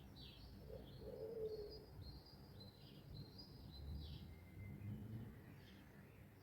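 Songbirds chirping and singing faintly: short falling chirps and a warbling phrase, with a short lower note about a second in, over a low background rumble.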